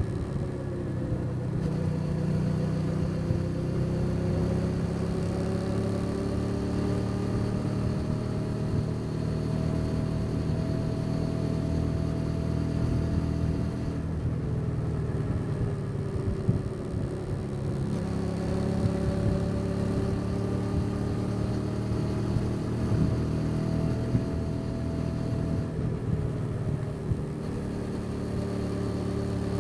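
Custom motorcycle's engine running under way with wind and road noise, its pitch climbing slowly as the bike gathers speed, easing off around the middle and climbing again, then easing off near the end.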